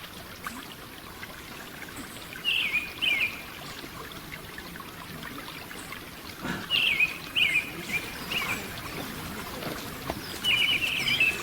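Wild bird calling in short, sharp chirps that come in clusters of two to five notes, several seconds apart, over a steady faint hiss.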